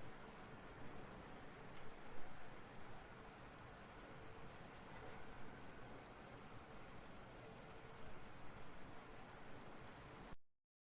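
Grasshopper stridulating: a steady, high-pitched insect trill that cuts off suddenly about ten seconds in.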